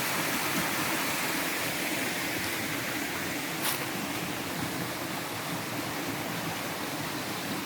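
Mountain spring water rushing in a steady stream, with one faint click about three and a half seconds in.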